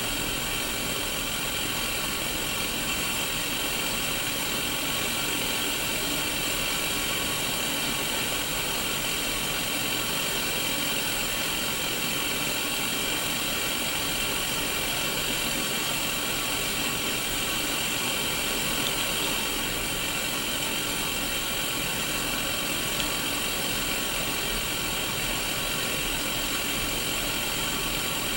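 Static hiss from an untuned Sony Mega Watchman black-and-white mini CRT TV playing through its own small speaker. It is steady and even, with faint steady tones running through it.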